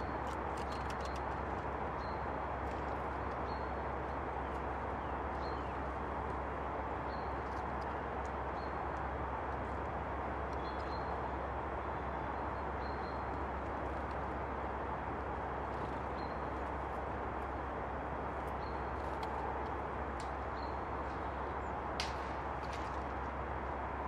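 A small bird repeating a short, high call note every second or two over a steady background rush, with one sharp click near the end.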